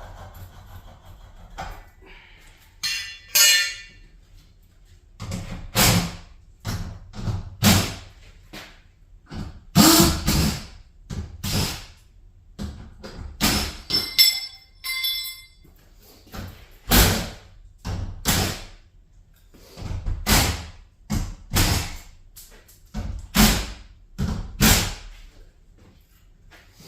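Irregular knocks and bangs of garage door parts being dismantled, one every second or two, a couple of them with a ringing metallic clang.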